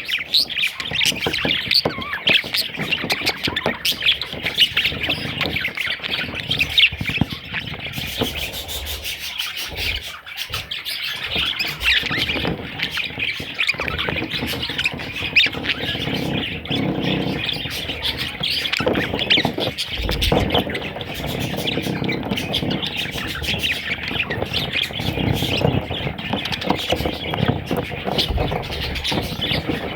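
A group of budgerigars chirping and squawking continuously, a dense, busy chatter of many overlapping calls.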